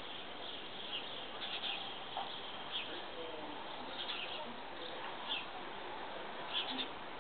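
Small birds chirping, short high calls about once a second, over a faint steady outdoor hiss.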